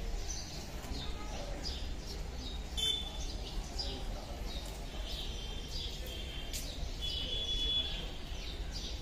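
Birds chirping, with many short high calls and a few brief trills scattered throughout. Underneath runs a steady low background rumble of the outdoor street.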